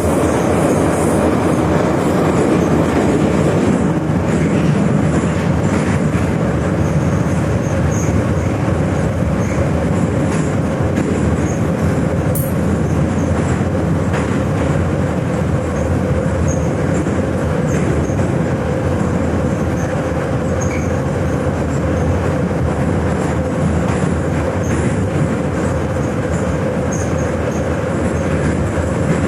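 Moscow metro 81-717/714 "Nomernoy" train running at speed between stations, heard from inside the car: a loud steady rumble of wheels and running gear with a held hum on one pitch.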